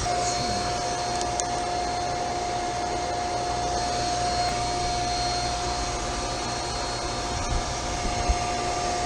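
Steady whirring drone of chiller plant equipment with a constant high-pitched tone running through it, and a couple of small clicks.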